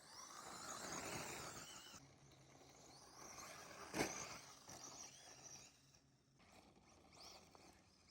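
Tekno SCT410SL electric short course RC truck driving over snow at a distance, its brushless motor whining up and down as it passes, with a sharp knock about four seconds in.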